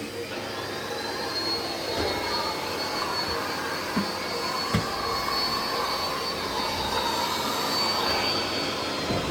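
Miele Blizzard CX1 bagless vacuum cleaner running with its turbo brush: a steady rushing suction noise with a high whine that rises in the first second and holds, and two small knocks about four and five seconds in.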